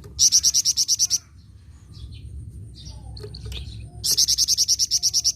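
Songbird known in Indonesia as the flamboyan, singing: two loud fast trills of repeated sharp high notes, about ten a second and each lasting about a second, one at the start and one about four seconds in, with softer chirps between them.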